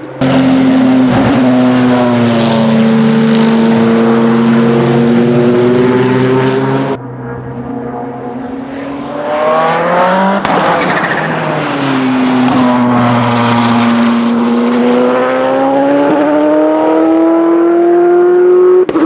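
Bentley Speed 8's 4.0-litre twin-turbo 90° V8 race engine running at high revs on track. About ten seconds in, the car passes close with a sharp drop in pitch, then the engine note climbs steadily as it accelerates away.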